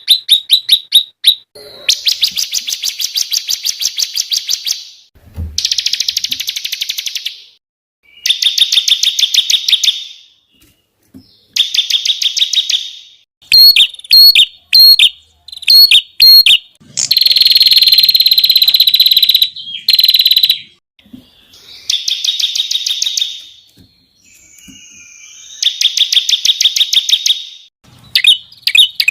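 Songbirds singing rapid 'tembakan' trills: fast runs of sharp, high repeated notes in phrases of two to three seconds with short pauses between them. About halfway through come several separate piercing notes, followed by one longer unbroken trill.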